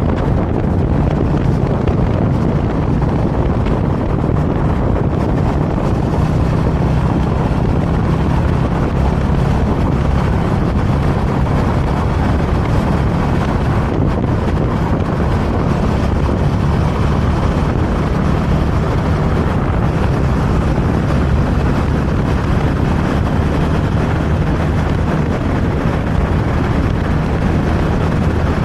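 Motorcycle running steadily at cruising speed, its engine a constant low hum under loud wind noise on the microphone.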